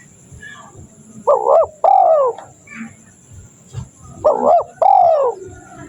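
Spotted dove (tekukur) cooing, two phrases about three seconds apart. Each phrase is a short note followed by a longer note that falls in pitch.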